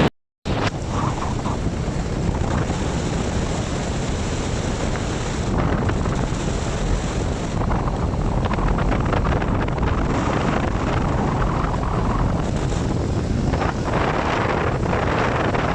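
Wind buffeting the microphone over the rumble of a vehicle moving along a highway, a steady rushing noise that cuts out for a moment at the very start.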